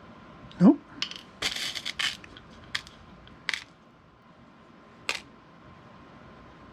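A few light clicks and a short rattling scrape of small hard pieces being handled and set down on a hard surface, ending with a single click about five seconds in.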